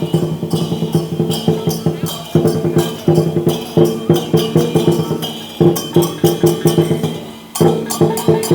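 Lion and dragon dance percussion: a drum beaten in fast strokes with clashing cymbals and a ringing gong, playing in loud phrases with brief breaks between them.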